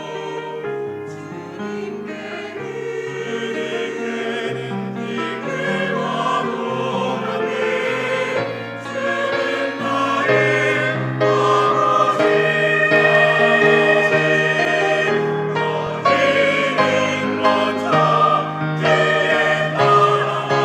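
Church choir singing a sacred anthem in parts with long held notes, swelling louder through the first half and staying full after that.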